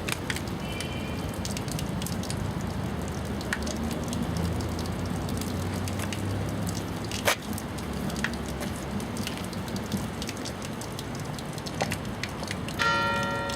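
Steady background noise with scattered light clicks and taps inside a bell tower; about a second before the end, a church bell is struck and rings on with a clear, sustained tone, the start of the half-hour ringing.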